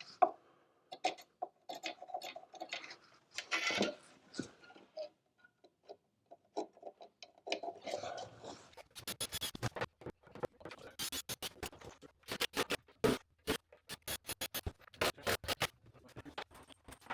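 Pencil and ruler scratching and scraping on timber boards as points are marked, scattered at first, then a quick run of sharp clicks and taps through the second half.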